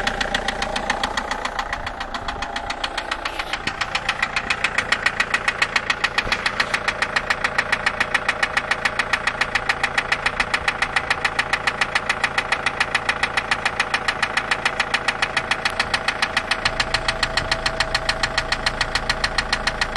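SsangYong D20DT four-cylinder turbodiesel idling with a rapid, regular knock in time with the engine. The knock comes through sharper and louder about four seconds in.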